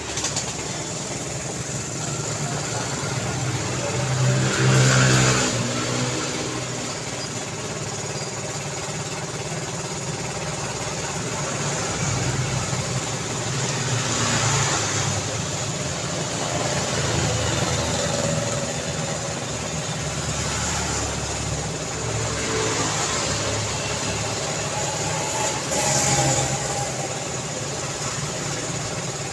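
Daytime road traffic: a steady run of vehicle engines and tyre noise, with individual vehicles passing closer and louder about five seconds in, mid-way and again near the end.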